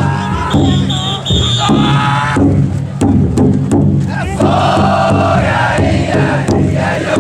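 A large crowd of taikodai bearers chanting the festival's kakegoe calls in unison ("sōrya, enya enya, yoiyassa"), many voices shouting together in a loud, continuous chant.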